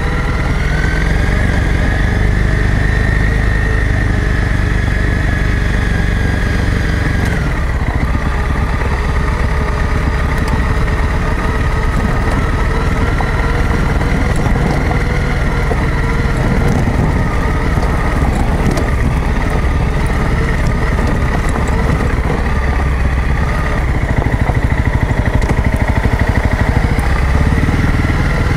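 Honda CRF250 Rally's single-cylinder four-stroke engine running steadily as the bike rides a gravel track, its pitch dropping once about seven seconds in.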